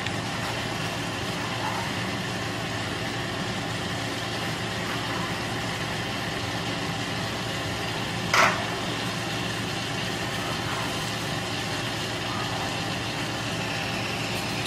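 Onions, tomatoes and ginger sizzling in a wok, a steady hiss under a machine-like hum. About eight seconds in comes a brief crinkle as a foil spice sachet is torn open.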